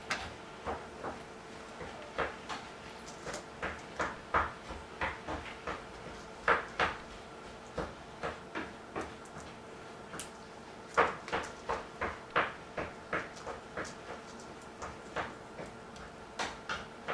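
Plastic Lego pieces and minifigures clicking and knocking as they are handled and pressed into place: a run of short, irregular clicks, with a few louder ones about six and eleven seconds in.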